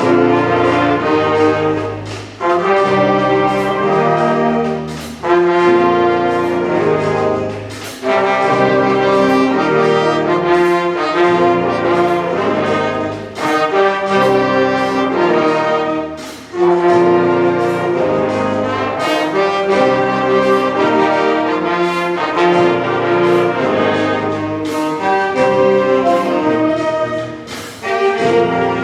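A wind band plays loud, brass-led music in sustained chords, phrased in blocks of a few seconds with short breaks between them. Sharp percussion hits punctuate the chords.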